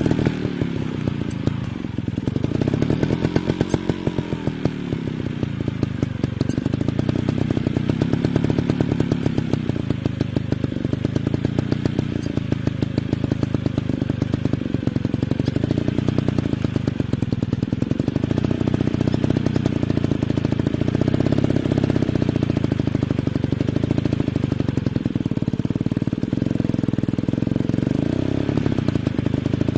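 Dirt bike engines running hard, the pitch rising and falling again and again as the throttle is opened and shut.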